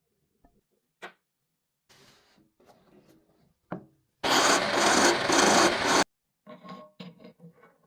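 Abrasive scraping on a metal cleaver blade during restoration: a loud rasping stretch of about two seconds about halfway through. Before it come scattered clicks and light handling, and near the end a few short metallic clinks.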